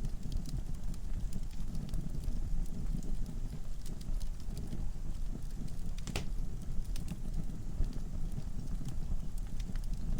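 Wood logs burning in a fireplace: a steady low rumble of flames with scattered crackles and pops, and one sharper crack about six seconds in.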